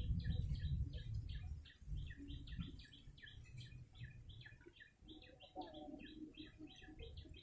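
Prenjak lumut chirping: a rapid, unbroken series of short, high chirps, several a second, the call used in bird luring. Under it runs a low rumble that is loudest in the first second and a half.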